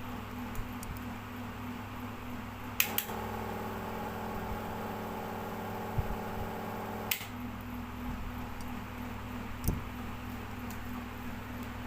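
Ceiling fan motor running with a steady low hum. About three seconds in, a click brings in a louder electrical buzz with many overtones. The buzz stops with another click about four seconds later.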